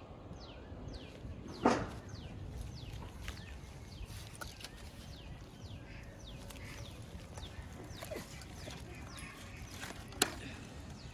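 Outdoor bird chirping: a small bird repeats a short, high, falling chirp about twice a second, over a low rumble. Two short sharp knocks stand out, a loud one about two seconds in and another near the end.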